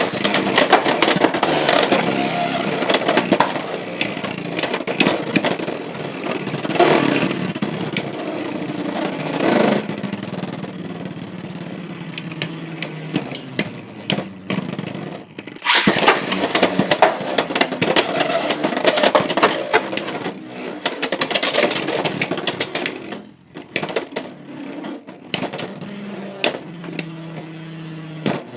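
Two Beyblade X spinning tops, Fox Brush and Impact Drake, battling in a plastic stadium: sharp, rapid clacks of collisions over a steady spinning whir. The sound breaks off about 16 seconds in and a fresh round of clashing starts right after.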